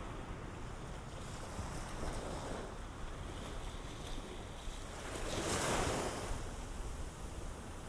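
Ocean waves washing onto the shore, with one wave breaking louder about two-thirds of the way through.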